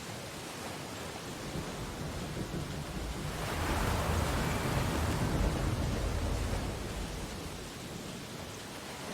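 Ocean waves on a beach: a steady hiss of surf, with one wave swelling a few seconds in, washing loudest for a couple of seconds, then fading back.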